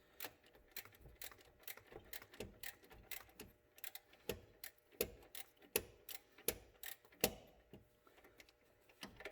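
Socket ratchet clicking in quick, uneven strokes on an alternator mounting bolt, a few clicks louder than the rest. The ratchet is probably set the wrong way, with the direction pin knocked over, so it turns in the wrong direction.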